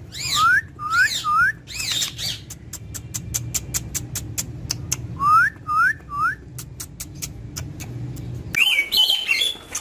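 Pet parrot whistling three quick rising notes, then three more about five seconds later, with a run of rapid sharp clicks in between. Near the end it breaks into harsh squawking calls.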